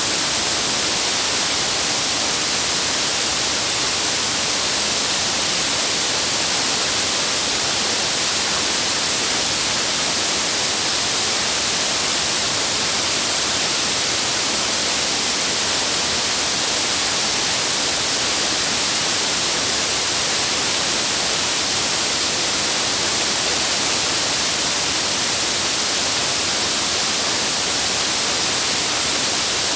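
Rushing water of a waterfall: a steady hiss that does not change.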